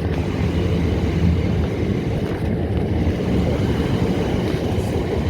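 Southern Class 377 Electrostar electric train running, a steady low rumble with a faint high whine above it.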